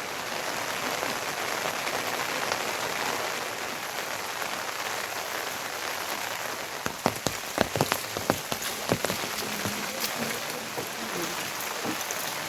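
Rain falling steadily, with a run of sharp, louder drop taps close by for a couple of seconds past the middle.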